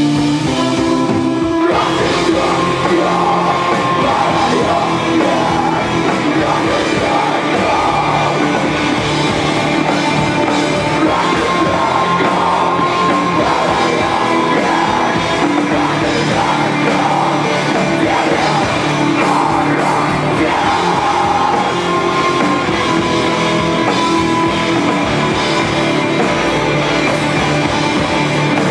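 Live rock band playing loud with drums, guitars and vocals; a held chord opens, and the full band crashes in about two seconds in.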